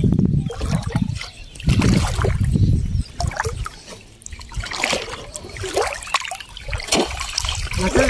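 Water splashing and trickling around a small wooden fishing boat, coming in uneven surges.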